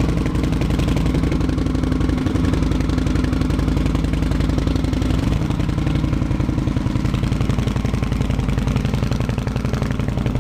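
Indian Scout V-twin motorcycle engine idling steadily at a raised cold-engine idle of about 1,400 rpm while it warms up, through a loud new stainless-steel exhaust tip. The note shifts slightly about five seconds in.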